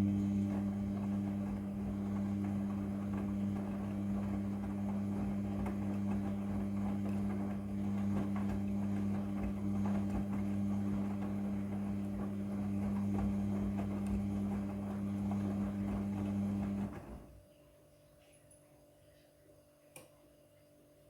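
Midea front-loading washing machine running with a steady electric hum over a rushing noise, which stops suddenly about seventeen seconds in.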